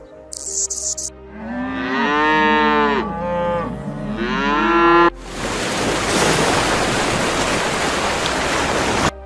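A cow mooing, about three calls that rise and fall in pitch over roughly four seconds. A loud, steady rushing hiss then comes in and cuts off abruptly near the end.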